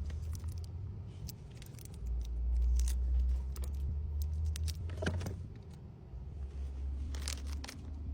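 Small items being handled and packed by hand: scattered light clicks and rustles, a little louder about five and seven seconds in, over a steady low rumble.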